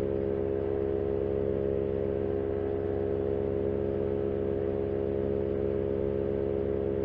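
Paramotor engine and propeller droning steadily at cruise power, an even multi-tone hum with no change in pitch. The recording is muffled and cut off in the treble, as if picked up through a headset microphone.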